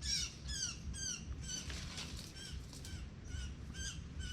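A bird giving a steady series of short, pitched calls, about three a second, each with a slight rise and fall in pitch.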